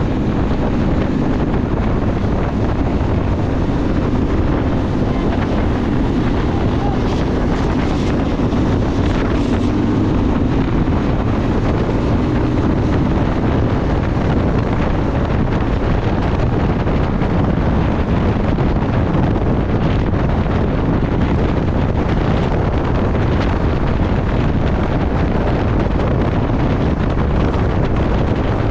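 Heavy wind noise buffeting the microphone over a steady engine drone, as from a moving vehicle at speed.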